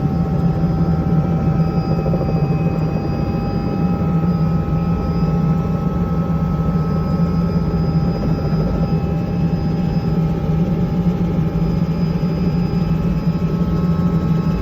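Tour helicopter running steadily: an even, loud rotor and engine noise with a strong low hum and a few steady high tones over it.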